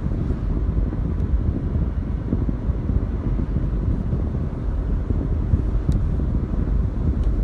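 Wind buffeting the microphone in a steady low rumble, with a couple of faint ticks.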